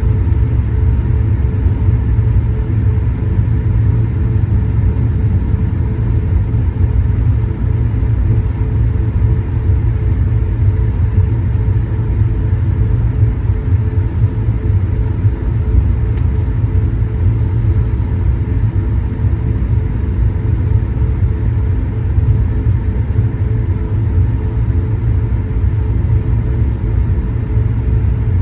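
Airbus A220-100 cabin noise: a steady drone from its Pratt & Whitney PW1500G geared turbofans over a deep, even rumble, with several steady hum tones and no change in pitch or level.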